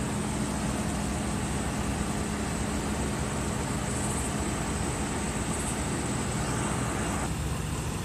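A vehicle engine idling: a steady low hum with a faint constant high whine. About seven seconds in, the hum steps down in pitch.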